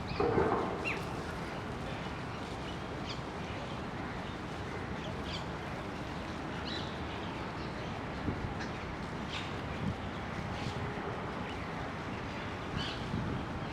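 Outdoor birdsong: short high bird chirps now and then over a steady background of ambient noise, with one louder, harsher call just at the start.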